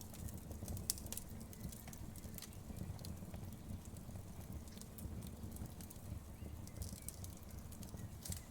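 Wood fire crackling in a fireplace: irregular sharp pops and crackles, with a denser cluster about a second in and again near the end, over a steady low rumble of the flames.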